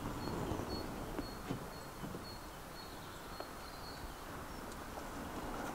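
Riverside outdoor background with a small bird's short, high, even-pitched call notes repeated about three times a second, stopping about four and a half seconds in, and a few faint clicks.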